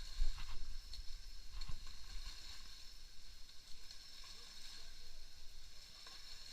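Water sloshing and splashing in the muddy water of a pond being drained, with short splashes about a quarter second and a second and a half in, over a steady high buzz.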